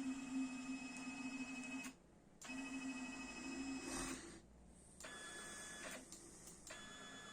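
Stepper motors of a CNC machine whining in steady tones as the axes move under Mach3 control. The motion pauses briefly about 2 s in and again just after 4 s, and the pitch changes with each new move.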